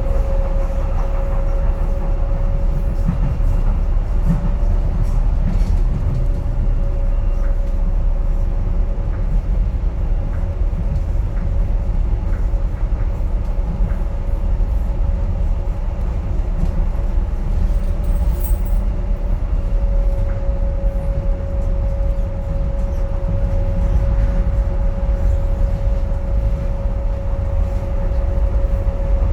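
Docklands Light Railway train running between stations, heard from inside the carriage: a steady low rumble with a thin steady tone running through it.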